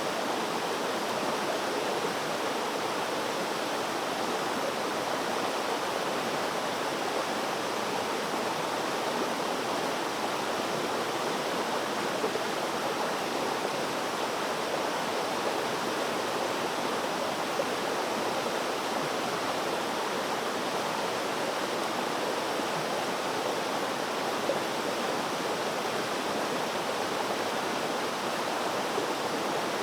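Water flowing steadily, a constant even rush like a stream or small waterfall.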